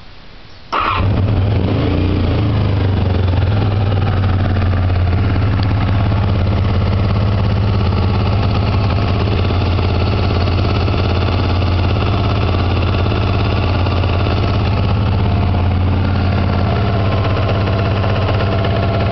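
A 1986 Honda VFR750F's V4 engine is started about a second in, catches at once and settles into a steady fast idle on choke, held high because its freshly rebuilt carburettors are badly out of sync. A light tapping from the top end of cylinder four, which the owner is trying to diagnose, is barely noticeable at this speed.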